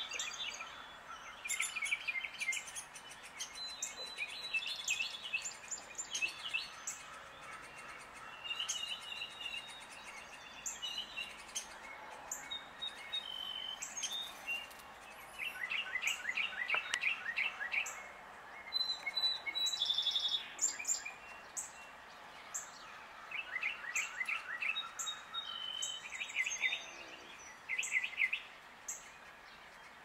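Birds calling in the surrounding trees: repeated short chirps and quick rapid series of notes, coming in bouts throughout.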